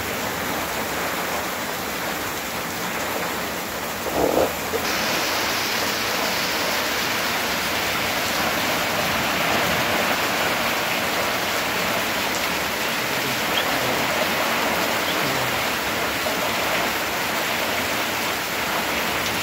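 Heavy rain pouring down in a windstorm, a dense steady rushing hiss that turns brighter and a little louder about five seconds in. A short louder sound stands out just before that.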